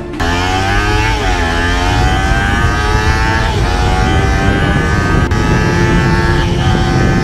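A 250cc motorcycle engine accelerating hard through the gears. Its pitch climbs, drops at each upshift about one, three and a half and six and a half seconds in, then climbs again.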